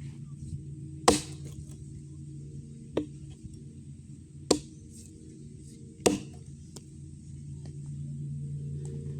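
Swiss Tech axe chopping wood: four separate strikes, roughly a second and a half apart.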